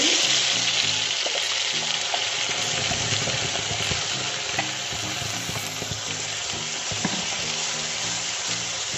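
Freshly ground wet gravy paste sizzling loudly as it is poured into hot oil and fried cumin in an aluminium kadhai, then stirred with a spatula; the sizzle is strongest in the first second and eases a little as the paste settles.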